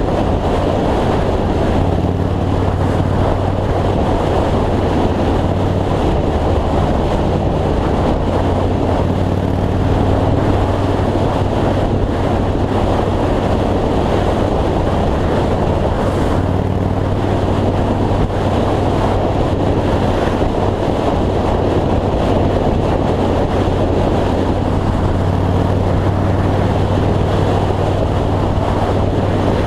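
2003 Yamaha Road Star V-twin motorcycle engine running steadily at interstate cruising speed, with wind rushing over the microphone.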